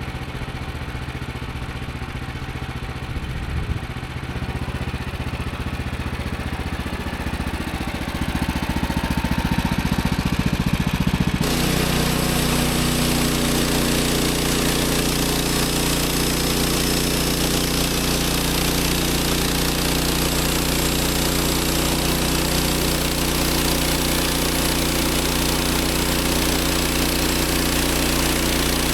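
Petrol engine of a Woodland Mills HM130 MAX band sawmill running steadily, then about eleven seconds in the note suddenly gets louder and fuller as a continuous hiss of the band blade cutting through the cedar log starts and holds steadily.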